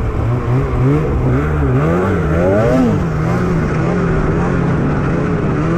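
Snowmobile's two-stroke engine under throttle, its pitch swinging up and down for the first few seconds as the rider works the throttle, then running at a steady pitch, with wind and snow noise over it.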